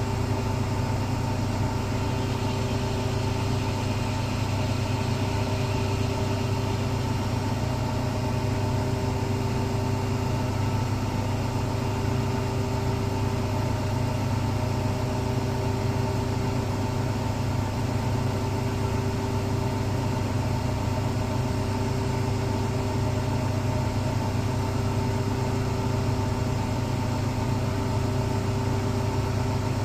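Electrolux Professional WN6-20 commercial washing machine spinning its drum at a steady speed, giving a constant mechanical hum with steady overtones.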